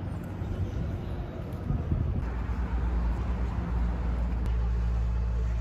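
Street traffic: a motor vehicle's engine running close by, a low steady rumble that grows stronger about two seconds in and holds.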